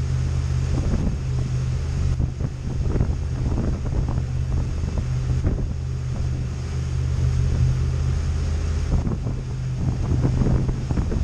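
Boat engine running steadily with a low hum, under strong wind buffeting the microphone.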